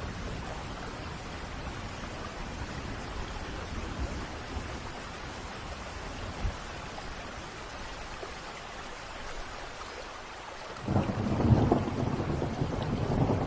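Steady rain falling in a thunderstorm. About 11 s in, a rumble of thunder sets in suddenly and grows louder, continuing to the end.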